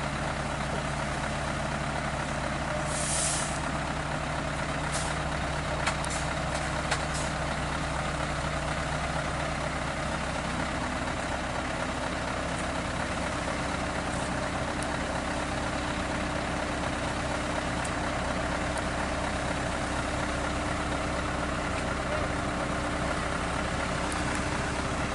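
Heavy diesel truck engine running steadily, with a short hiss of air about three seconds in and a few light clicks after it. The engine note steps up about ten seconds in.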